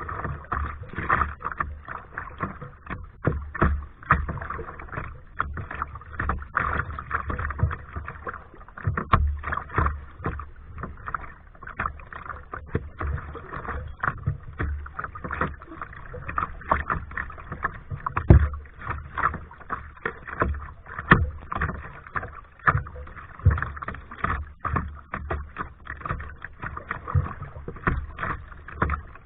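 Kayak paddling: paddle blades dipping and splashing in the water, with irregular sharp knocks and splashes over a low rumble, the loudest hits about 18 and 21 seconds in.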